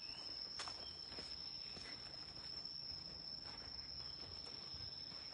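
Insects giving a steady, high-pitched, unbroken buzz, with faint footsteps about every half second.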